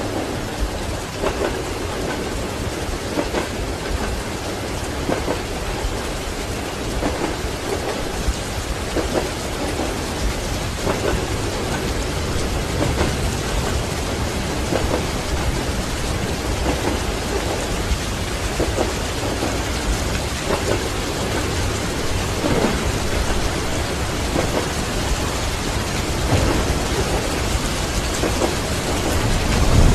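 Steady heavy rain pattering, with scattered sharper drops and a constant low rumble of thunder underneath. It grows a little louder near the end.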